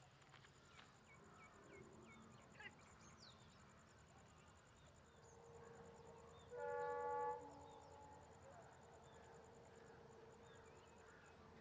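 Quiet rural ambience of a high, rapidly pulsing insect and scattered bird chirps, with a single short train horn blast about two-thirds of the way in, the loudest sound, from a train approaching along the line.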